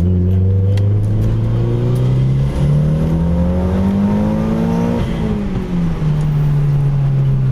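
Car engine accelerating, its pitch rising steadily for about five seconds, then dropping as it comes off the throttle, and settling to a steady cruise.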